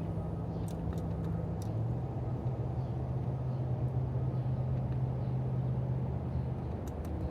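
A low, steady engine hum, its pitch stepping up slightly about two seconds in, with a few faint short high chirps or clicks near the start and near the end.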